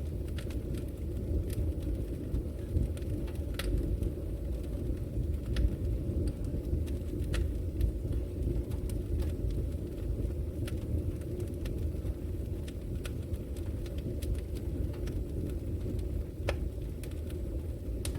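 Wood logs burning in a fireplace: a steady low rumble of flame with scattered sharp crackles and pops, one louder pop near the end.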